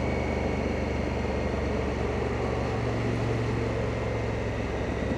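Honda Africa Twin motorcycle engine running steadily while riding, with road and wind noise.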